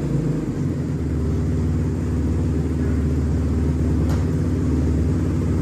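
Kawasaki KX250 four-stroke single-cylinder dirt bike engine running steadily with a low rumble, just started after its timing chain was replaced.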